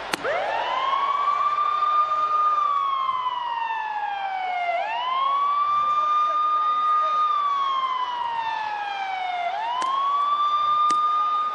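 Ambulance siren wailing. Each cycle swoops up quickly, holds, then slides slowly down over a couple of seconds, and starts again about every five seconds; it sounds three times.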